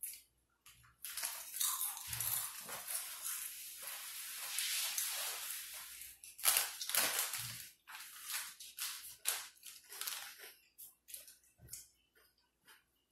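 Close-miked eating: crunchy chewing and crackling, dense for several seconds, then a few louder crunches and scattered crackles that thin out.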